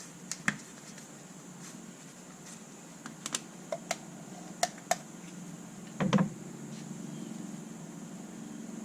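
Scattered light clicks and taps from plastic motor-oil quart bottles and caps being handled while refilling the engine, with a louder knock about six seconds in, over a low steady hum.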